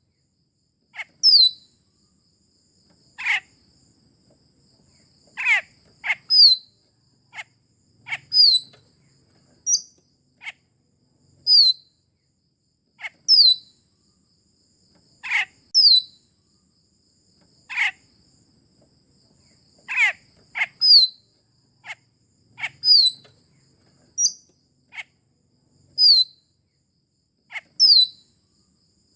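Raja perling (Sulawesi myna) calls: sharp, short downward-sweeping whistles repeated every one to two seconds, some in quick pairs, over a steady high-pitched insect drone.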